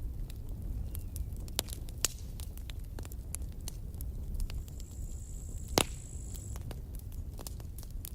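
Campfire burning: a steady low rumble with scattered sharp crackles and pops from the burning wood, the loudest about six seconds in. A thin high hiss comes in briefly just after the middle.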